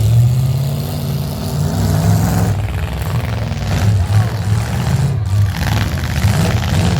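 Derby vehicles' engines running and revving, a low drone that rises and falls in pitch.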